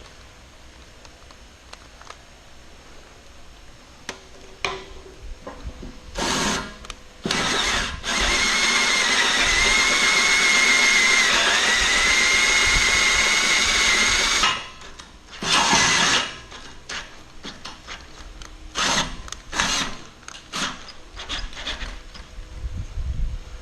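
Electric drill with a step bit drilling a hole in steel: two short bursts, then a steady run of about six seconds with a high motor whine that dips slightly under load, then more short bursts as the drill is triggered on and off.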